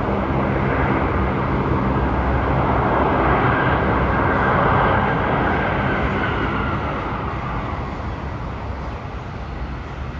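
Vehicle or engine noise that swells to a peak about four to five seconds in and then fades away, over a low steady hum.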